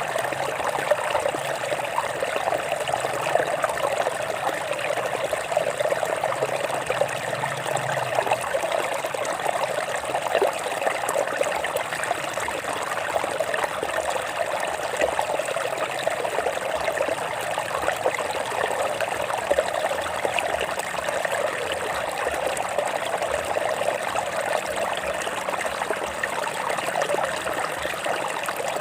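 Stream water trickling and splashing over rocks in a steady, continuous flow.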